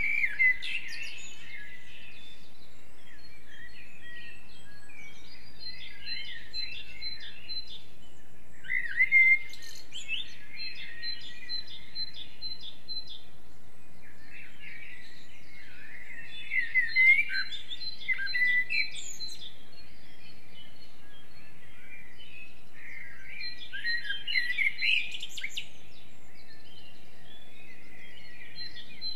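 Songbirds singing. Bursts of rich, warbling song come every several seconds, over runs of short, high, evenly repeated notes from another bird.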